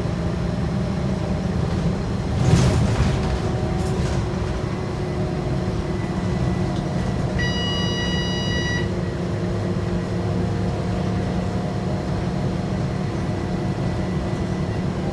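Inside a Scania K230UB bus on the move: its Scania DC9 five-cylinder diesel and road noise run steadily. A knock or rattle comes about two and a half seconds in, and midway an electronic beep sounds for about a second and a half.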